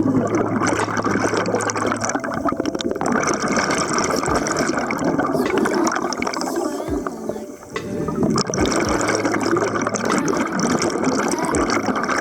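Loud rushing, bubbling water, with a short lull about seven and a half seconds in.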